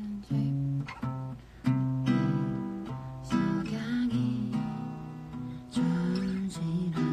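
Acoustic guitar being played: chords strummed and notes picked, each ringing and dying away in turn.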